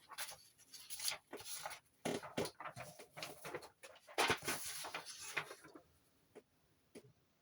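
Irregular scratching and rubbing with light taps, in short bursts for about six seconds, then near silence.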